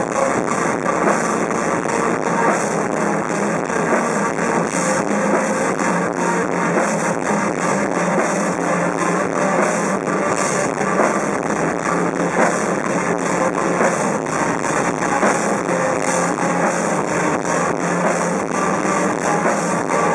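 Rock band playing live: continuous, loud full-band music with a steady drum beat.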